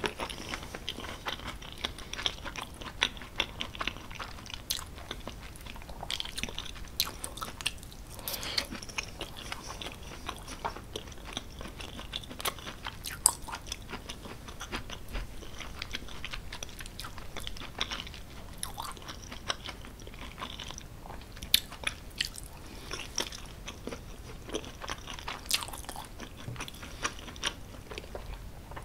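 Close-miked chewing of creamy cheese-stuffed tortellini with bacon and vegetables: wet, sticky mouth sounds with many small clicks, going on continuously.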